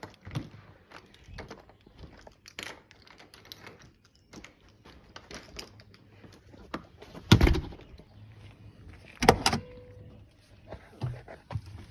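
Scattered clicks and small knocks, with a loud thump about seven seconds in and a loud double knock about two seconds later, like a door being shut, the second followed by a short ringing tone.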